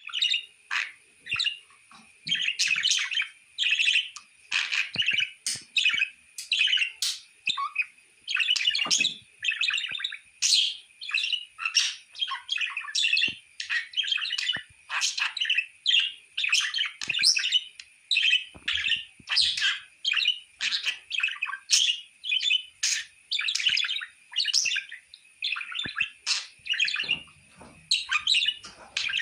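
Pet budgerigars chattering and warbling: a continuous stream of quick, high chirps with short breaks.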